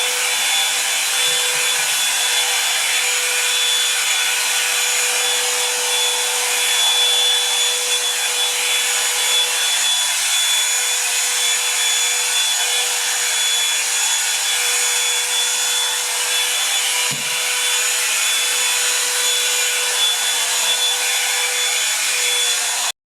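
Revlon One-Step hair dryer and volumizer brush blowing air steadily with a constant motor whine, switched off abruptly at the very end.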